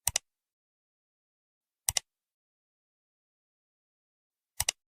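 Three short double clicks, each a quick pair of sharp ticks, about two seconds in between, with dead silence around them.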